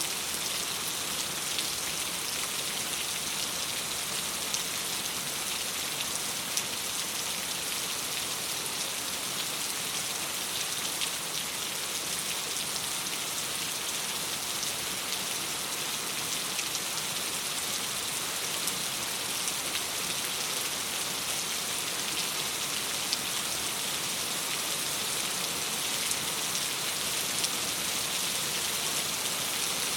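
Steady rain on a window, an even hiss strongest in the high range, with a few faint sharp ticks now and then.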